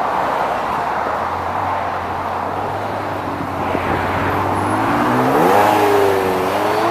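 Supercar engine accelerating: after a few seconds of steady road noise, the engine note rises sharply about five seconds in, levels off briefly, then starts climbing again near the end.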